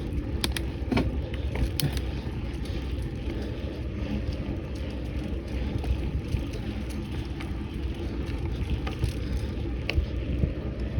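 Steady low wind rumble on the microphone and bicycle tyre noise while cycling along a path, with a few sharp clicks in the first couple of seconds and another near the end.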